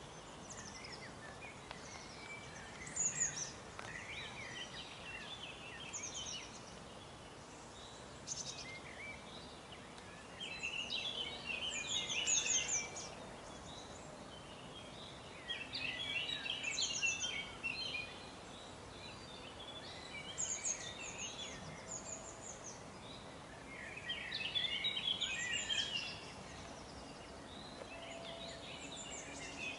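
Songbirds singing outdoors in bursts of quick high chirping, one every few seconds, each lasting a second or two, over a steady faint background of environmental noise.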